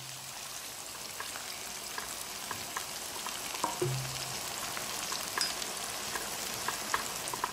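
Chunks of fennel and garlic frying in hot olive oil in a pan: a steady sizzle with scattered small pops and spits.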